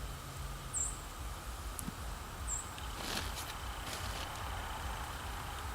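Hands digging through loose container soil, with a brief rustling scrape about three seconds in, over a faint steady outdoor rumble. A couple of short, high chirps sound, at about one second and near the middle.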